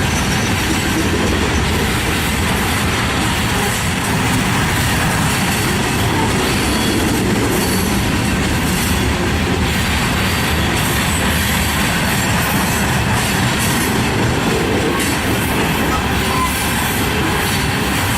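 Loaded or empty freight cars rolling past on steel wheels, a loud, steady rumble and rattle of wheels on rail.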